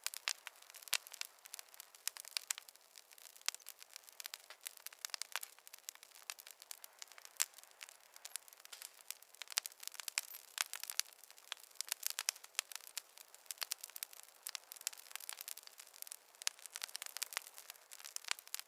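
Wood fire crackling in a fireplace: many sharp, irregular pops and snaps over a soft hiss, with no low rumble.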